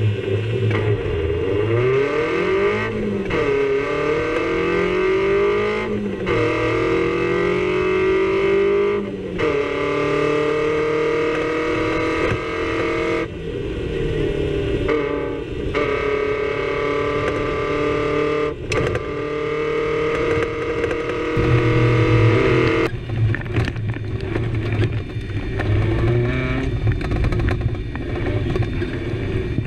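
Suzuki Samurai rally car's engine heard from inside the cabin, revving hard and pulling up through the gears, with a brief lift in engine note at each gear change a few seconds apart.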